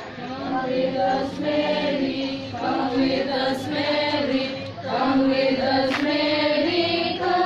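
A group of people singing a hymn together, with long held notes.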